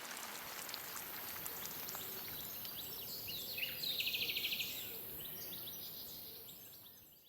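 Forest ambience: a steady outdoor hush with scattered faint ticks, and a bird singing a quick high trill about halfway through. The sound fades out near the end.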